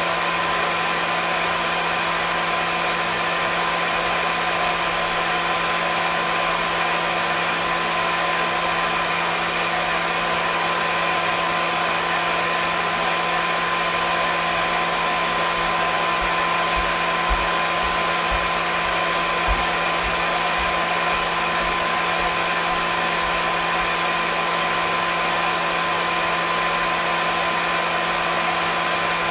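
Hair dryer running continuously, a steady rush of air with a constant motor hum and whine.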